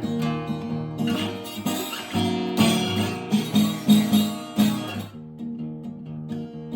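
Acoustic guitar playing a blues instrumental passage between sung lines, plucked and strummed notes, sparser over the last couple of seconds.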